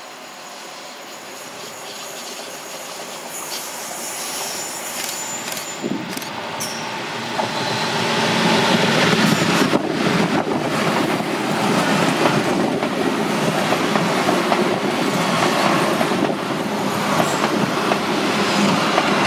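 A diesel-hauled train of vintage riveted passenger carriages approaching and then passing close by. It grows louder over the first eight seconds or so, then runs as a steady rattle and clack of wheels over the rail joints as the carriages roll past.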